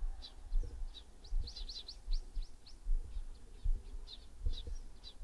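Small birds chirping over and over in quick, high, sweeping notes, over low irregular bumps and rumble on the microphone.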